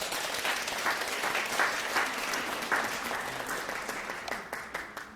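Crowd applause, a dense wash of clapping that starts right as the song ends. It slowly fades and then cuts off abruptly.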